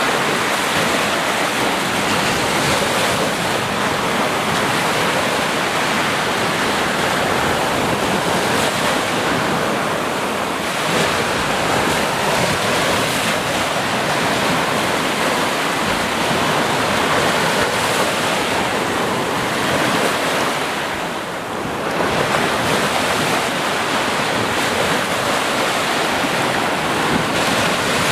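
Sea surf washing ashore in a steady, continuous rush, with a brief lull about three quarters of the way through.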